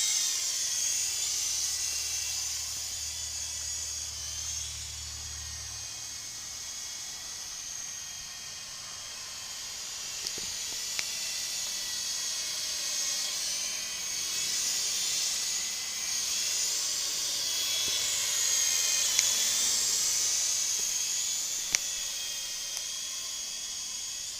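Syma S031G toy RC helicopter's small electric motors and coaxial rotors whining in flight, the pitch rising and falling as the throttle changes. A few faint clicks break in here and there.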